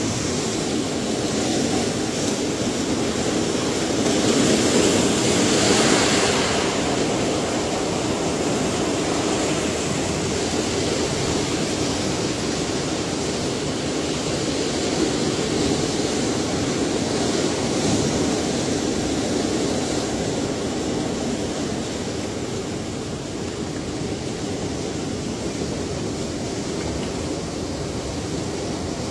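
Ocean surf, waves breaking and washing in a continuous rush of noise, with one wave swelling louder about four to six seconds in.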